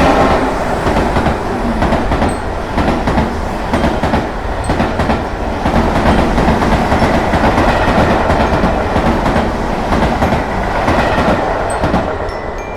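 Train passing close by: a loud, steady rush of wheels on rails with a rapid clickety-clack, easing off near the end.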